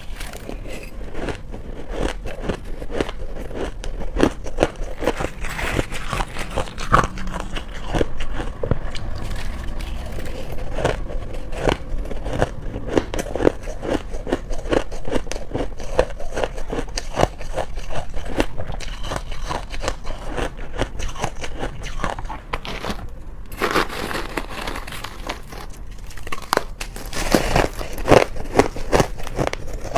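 Close-miked biting and chewing of soft, chunky freezer-frost ice, a dense run of crisp crunches and crackles.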